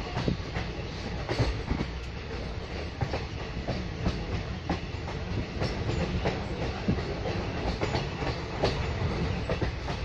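Train running along the track, heard from inside a coach at an open window: a steady rumble of the wheels on the rails with frequent irregular clicks and clatter.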